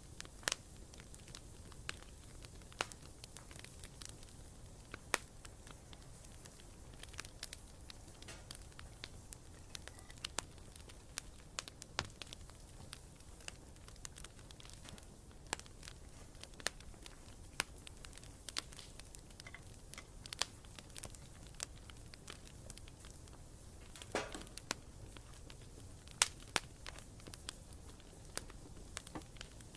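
Wood campfire crackling: irregular sharp pops and snaps over a faint steady hiss, with a brief sputtering burst late on.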